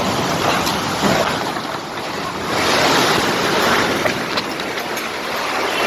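Heavy storm rain and strong wind: a steady rushing noise that swells in a gust about midway and then eases back.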